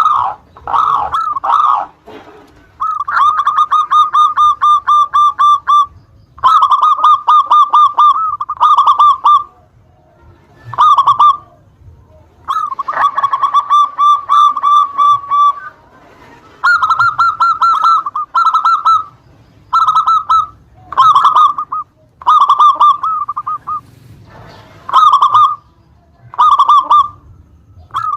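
Zebra dove (perkutut) singing a long run of its rapid, high cooing phrases. Each is a fast string of repeated notes, some short and some lasting a few seconds, with brief pauses between.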